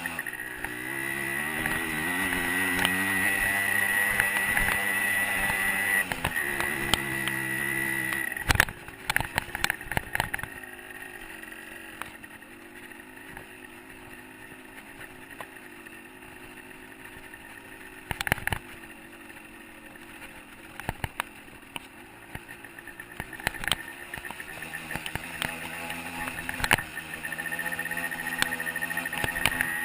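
125 cc two-stroke dirt bike engine running, its pitch rising and falling with the throttle. About eight seconds in it drops to a much lower level for roughly fifteen seconds, broken by several sharp knocks, then picks up again near the end.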